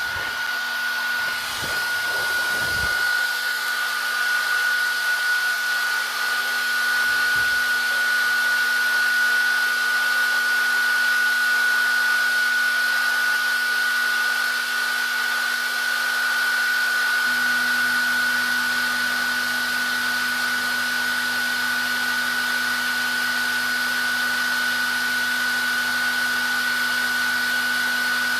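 Hair dryer running steadily: a continuous rush of blown air with a high motor whine, and a low hum that grows stronger about 17 seconds in.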